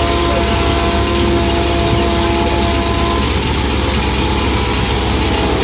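Komatsu PC130-8 hydraulic excavator's diesel engine running steadily, with a steady whine over the low rumble that fades about halfway through.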